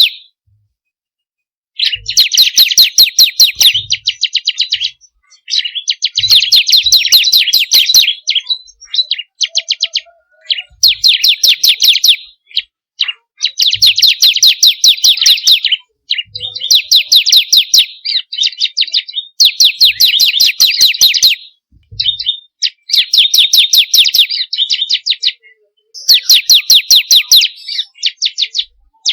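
Bar-winged prinia (ciblek) singing: about ten loud bursts of rapid, evenly repeated high sharp notes, each burst lasting around two seconds, separated by short pauses.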